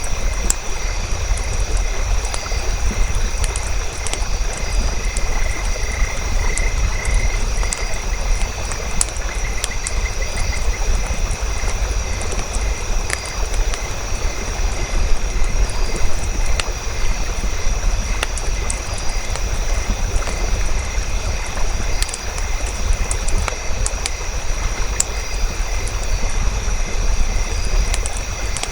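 Wood fire crackling, with scattered sharp pops over a steady low rumble and a thin, constant high tone; a short run of chirps comes through about six to ten seconds in.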